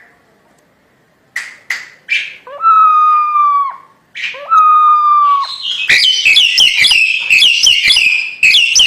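Crested myna (jalak hongkong) calling loudly: a few short sharp notes, two long whistles that each slide up at the start and drop away at the end, then a run of fast, busy chatter over the last three seconds.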